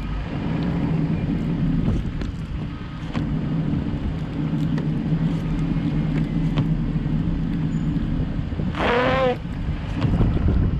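A car driving through snow, heard from inside: a steady low engine and road rumble with scattered faint ticks. About nine seconds in, a short high-pitched tone with a wavering pitch sounds over it.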